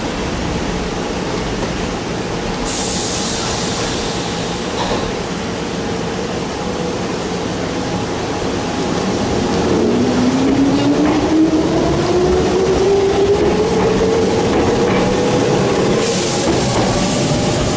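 A blue-and-cream electric commuter train pulls out of the station. A short hiss comes about three seconds in, then the motor whine rises steadily in pitch as the train gathers speed past the platform.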